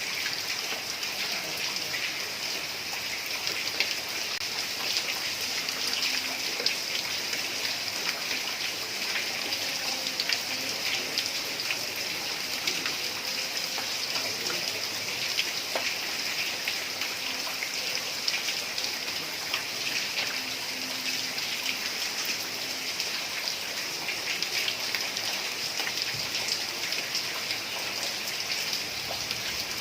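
Heavy rain falling on a tiled roof: a steady hiss dotted with many small drop ticks.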